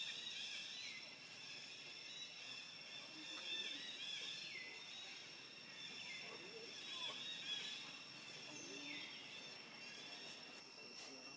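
Outdoor ambience of a steady, high-pitched insect drone, with repeated short swooping calls every second or two.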